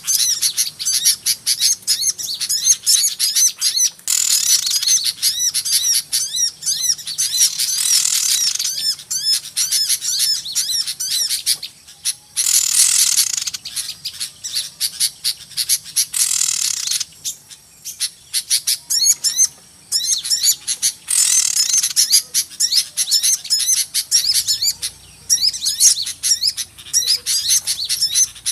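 Busy chorus of many small birds chirping and chattering rapidly and without pause, with several louder, harsher outbursts along the way: a lure call that bird trappers play to draw small birds in.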